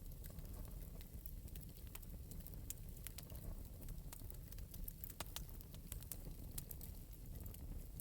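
Fire in an open metal fireplace crackling lightly, with scattered sharp pops over a low steady rumble.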